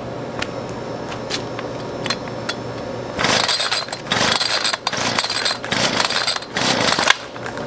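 Homelite two-stroke string trimmer being pull-started cold on choke: five or so quick pulls of the recoil starter cord in a row, the engine turning over and only kind of firing without running, as it is nearly out of fuel.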